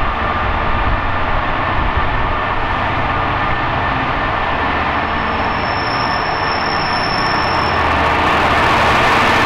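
A train on the line: a steady, loud rush of rail noise, growing a little louder near the end. A thin high whine sounds over it for a few seconds in the middle.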